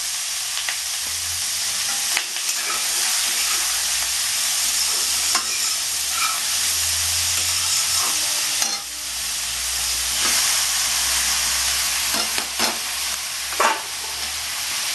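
Hot oil sizzling in a wok as a pile of shredded cabbage cooks on top of fried potato cubes and green chillies. A metal spatula clicks and scrapes against the pan a few times.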